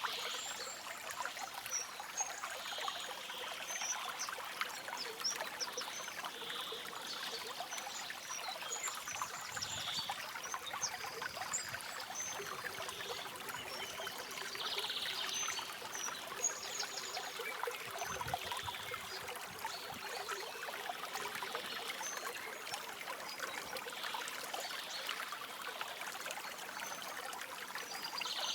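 A small stream trickling and splashing steadily over stones, with short, high bird chirps now and then above it.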